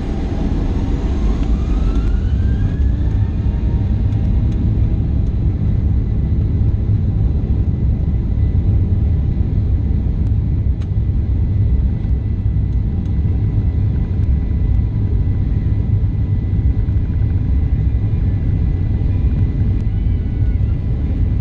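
Boeing 737-800 jet engines running with a heavy, steady low rumble. A whine rises in pitch over the first few seconds, then the sound holds steady and loud.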